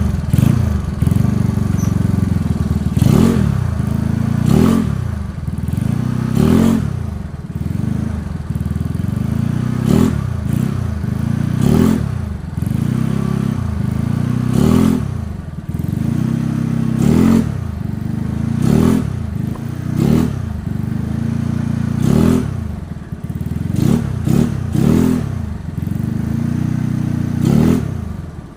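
Yamaha Mio scooter's single-cylinder four-stroke engine, bored up to 130 cc, running through a Hitech aftermarket exhaust. It idles and is revved in short throttle blips every second or two, each note rising and dropping back to idle.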